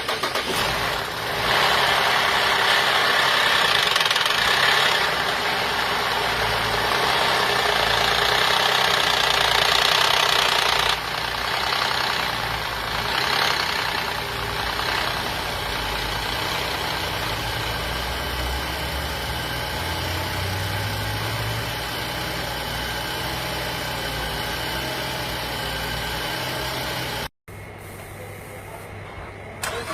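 Chevrolet Traverse engine idling: louder and busier for about the first ten seconds, then settling to a steadier, quieter idle. The sound cuts out for an instant near the end and carries on quieter.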